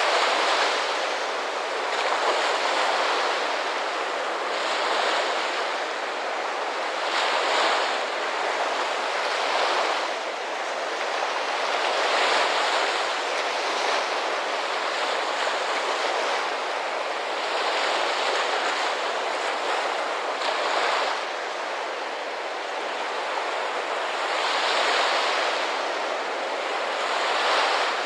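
Ocean surf washing ashore: a steady rush of water that swells with each wave every two to three seconds.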